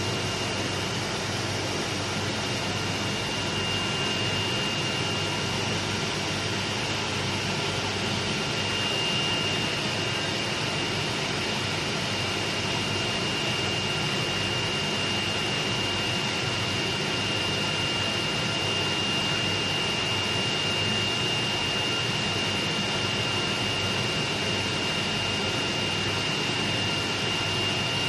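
Sticker-cutting machine running: a steady whirring hum with a constant high-pitched whine.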